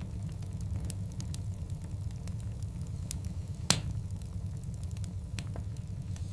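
Wood fire burning with a steady low rumble and scattered sharp crackles; one loud pop about two thirds of the way through.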